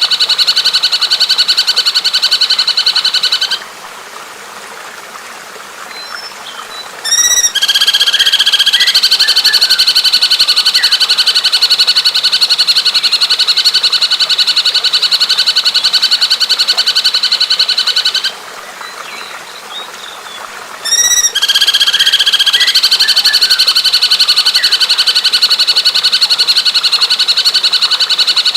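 Recorded bird song: a loud, very rapid, even buzzing trill that runs on for many seconds. It breaks off twice for about three seconds, and each break ends with a short stuttering call before the trill starts again.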